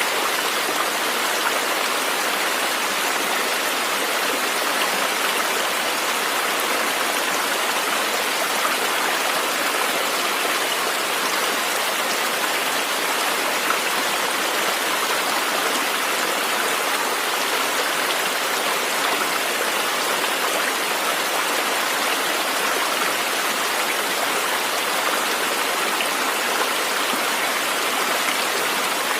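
A river or stream running steadily, with an even rushing of flowing water.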